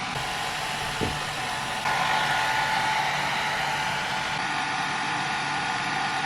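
Hair dryer blowing steadily while drying a wet kitten's fur; it gets louder about two seconds in, and there is a brief knock about a second in.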